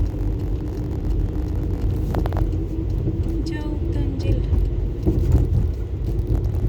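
Car road noise heard from inside the cabin while driving: a steady low rumble of engine and tyres.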